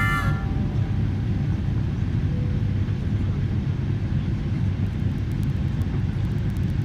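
Steady low rumble of engine and airflow noise inside a jet airliner's cabin while on approach to land.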